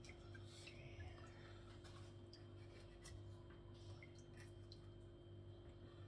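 Faint, scattered snips of sharp kitchen scissors cutting the nails off chicken feet, a few irregular clicks over a low steady hum.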